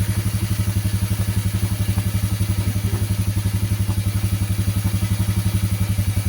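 ATV engine idling steadily while still cold after a hard cold start, with an even, rapid pulse and no revving.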